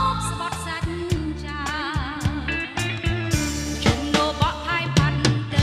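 Instrumental break of a Khmer modern-band song: a lead melody with wavering vibrato plays over a steady bass line and drum beat, with a cymbal crash about three seconds in.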